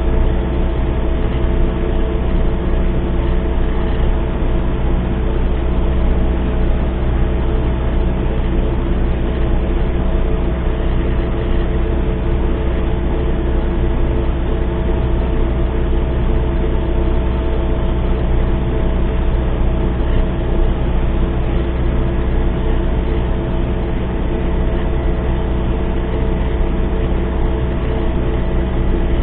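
MTZ-892 tractor's diesel engine running steadily under load while sowing, with an even drone and no changes in pitch.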